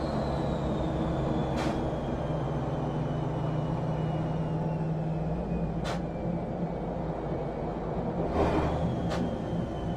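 Race truck's diesel engine running steadily under load, with a high whine slowly falling in pitch. Three sharp clicks and a short hiss of air about eight seconds in.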